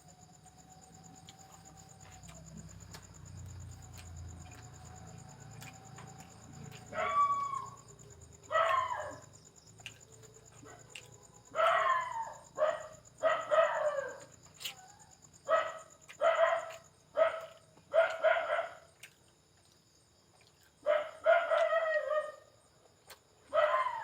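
An animal crying out repeatedly, a string of about a dozen short calls that each fall in pitch, starting about seven seconds in after a faint steady tone.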